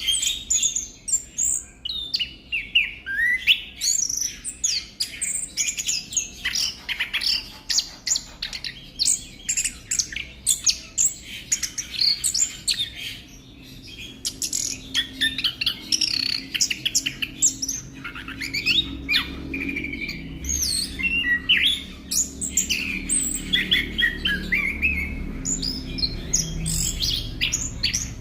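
Orange-headed thrush (anis kembang) singing a long, varied song of quick whistled and chattering phrases, almost without pause. A faint low hum comes in about halfway through.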